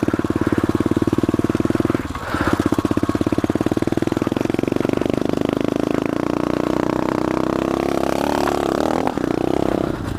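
SSR 125 pit bike's 125cc single-cylinder four-stroke engine running while the bike is ridden. The revs drop briefly about two seconds in, hold steady, then shift up and dip again near the end.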